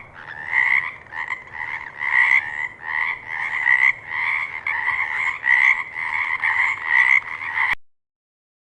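Frog croaking in a quick series of repeated calls, about two a second, which cut off abruptly about a second before the end.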